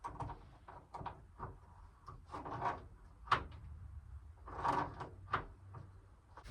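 Garden hose coupling being screwed onto an electric water heater's drain valve: an irregular run of small clicks, knocks and brief scrapes of handling.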